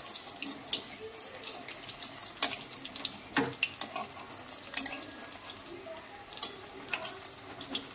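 Chicken leg pieces deep-frying in very hot oil: a steady sizzle broken by a sharp spattering pop every second or so.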